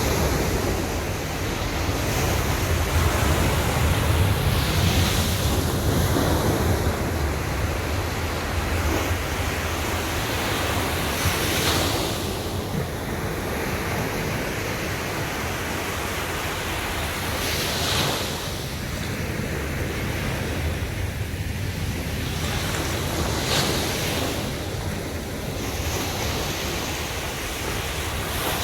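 Sea surf on a sandy beach: a continuous wash of breaking waves, with a brief brighter hiss as a wave breaks roughly every six seconds.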